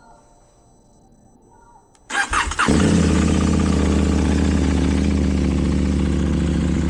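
KTM 790 Duke's parallel-twin engine with an Akrapovič exhaust being started: about two seconds in the starter cranks it briefly, it catches within about half a second and settles into a steady idle.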